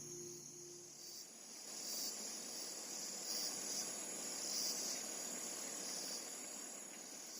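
Insects chirring in tropical forest: a steady high-pitched trill that swells in pulses about once a second, over a soft even hiss. The last notes of a guitar tune fade out about a second in.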